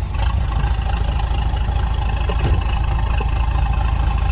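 Fishing boat's engine idling steadily with an even low pulsing, and a steady high-pitched whine above it.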